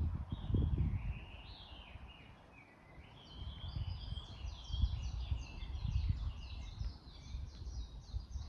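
Small songbird singing: a few falling whistled notes, then a fast run of short repeated notes that goes on for several seconds, over a low rumbling noise that is strongest at the start.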